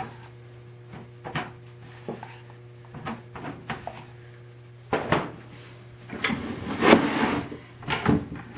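Wooden parts of a machinist's tool chest being handled: scattered knocks and scrapes of wood on wood, a few light ones at first, then a louder, busier run of knocks and rubbing from about halfway through.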